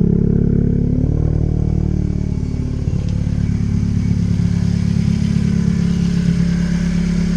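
2017 Honda Civic Si's 1.5-litre turbocharged four-cylinder running through a straight-piped exhaust, muffler and resonator deleted. The revs fall back about a second in, then it settles into a steady drone.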